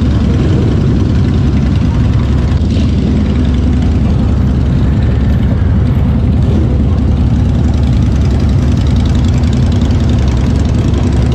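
Harley-Davidson V-twin motorcycle engine running steadily under way, with rushing wind on the microphone.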